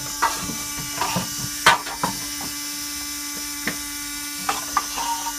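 Scattered knocks and clicks of things being handled, over a steady hum; the loudest knock comes a little under two seconds in.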